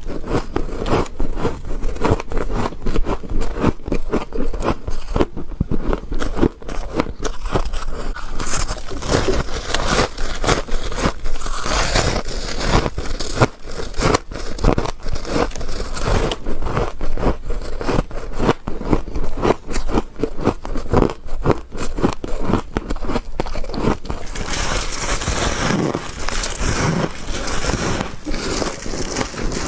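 Frost being bitten and crunched in the mouth, a dense, continuous run of crisp crunches.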